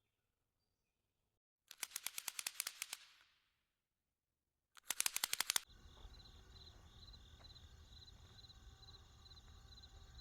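Two quick rattles of sharp clicks, about nine or ten a second, the second one shorter; then a faint steady background with a high, evenly pulsing trill.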